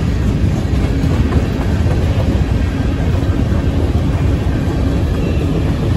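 Freight train's boxcars and covered hopper cars rolling past close by: a steady rumble of steel wheels on the rails.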